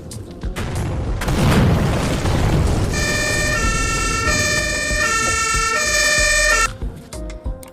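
A loud boom about a second in, then an emergency-vehicle siren sounding in two alternating tones for several seconds. The siren cuts off abruptly near the end.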